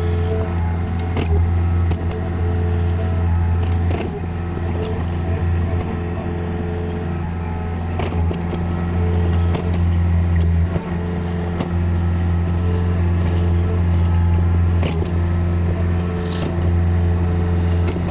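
Compact excavator's diesel engine running steadily under work, with sharp knocks every second or two.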